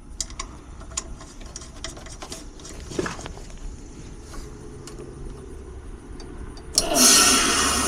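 Scattered light clicks and taps over a low unit hum, then about seven seconds in a sudden loud rushing hiss that slowly eases: a heat pump's reversing (switchover) valve shifting and refrigerant whooshing through, the sign that the valve works.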